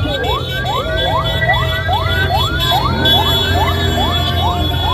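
Electronic vehicle siren in a fast yelp, its pitch sweeping up about three to four times a second, over a steady low vehicle engine rumble. The yelping stops just before the end.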